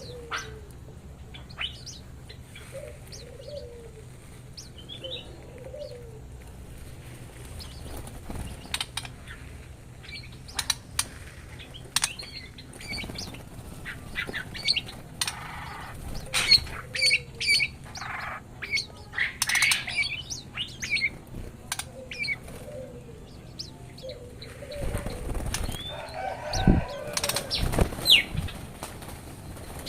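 White-rumped shamas and oriental magpie-robins in an aviary, flapping their wings and giving short chirps and calls throughout. A cluster of heavier wing flaps comes near the end.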